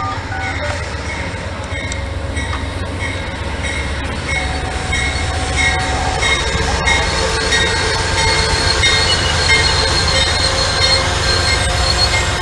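A train passing close by: a steady rumble of rolling cars with high, thin wheel squeals coming and going, growing slightly louder.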